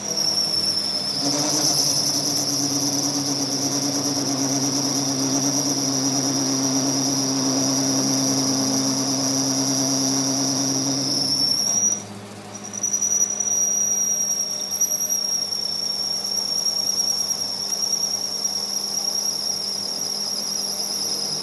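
A workshop machine running with a steady high-pitched whine over a lower hum. It breaks off for about a second roughly halfway through, then resumes.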